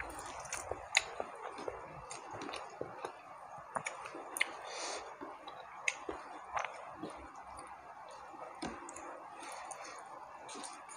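A person eating rice and tilapia curry with his fingers: chewing and wet lip smacks, with scattered small clicks throughout, over faint steady background noise.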